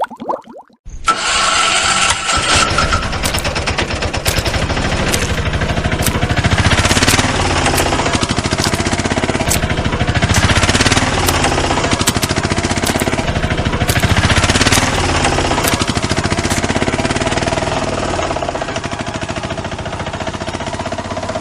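Engine running with a fast, even chugging, starting about a second in after a brief silence.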